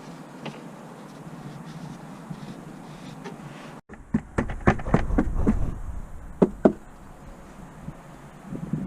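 A run of sharp knocks and clicks from hand work with tools on the car, starting about four seconds in after a sudden break in the sound, with the loudest strikes near the middle.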